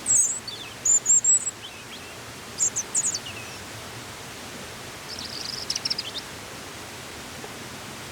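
Small bird chirping in four short, high-pitched bursts over a steady outdoor hiss.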